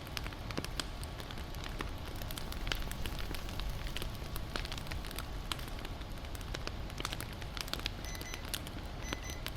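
Wood fire crackling, with many sharp snaps and pops over a low steady rumble. Faint short high tones come in near the end.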